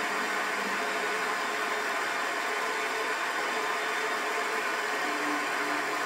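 Small gamma-type Stirling hot-air engine running steadily: an even whirring hiss with a faint low hum, with no separate clicks or knocks.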